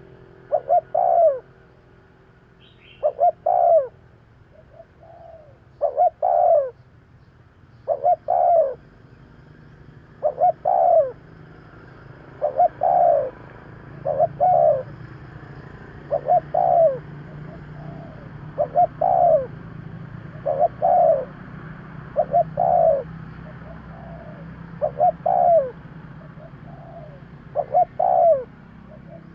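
Spotted dove cooing: the same short two-part coo phrase is repeated about every two seconds, a steady run of decoy calls used to draw in wild doves.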